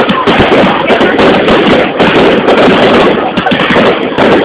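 Fireworks display going off, a dense run of bangs and crackles over a crowd's voices, loud throughout.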